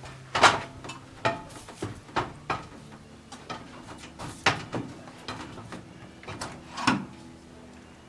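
Irregular knocks and clunks of objects being handled, about a dozen over several seconds, the loudest about half a second in and another near the seven-second mark.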